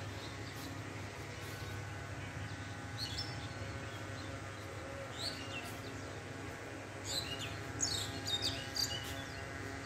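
Small birds chirping: a few chirps about three seconds in and a quicker run of chirps near the end, over a steady low hum.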